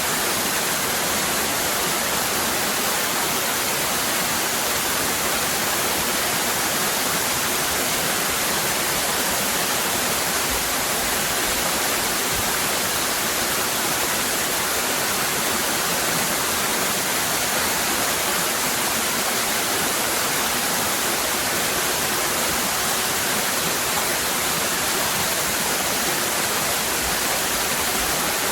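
Waterfall cascading: a steady, even rush of falling water with a hissy top end and no changes.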